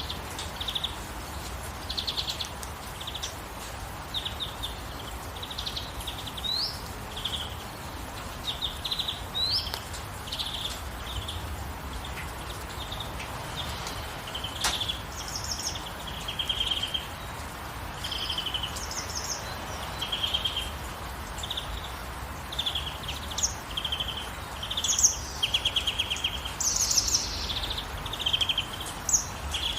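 Many songbirds chirping and trilling in short repeated phrases, with a few rising whistles, over the steady hiss of gentle rain. The birdsong grows busier and louder in the last third.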